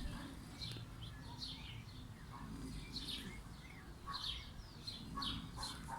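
Small birds chirping, short high falling calls repeating about twice a second over a low background rumble.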